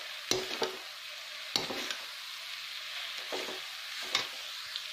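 Grated radish and onions sizzling in hot oil in a kadhai with a steady frying hiss. A metal spoon stirs the mix, scraping and clinking against the pan about six times at uneven intervals.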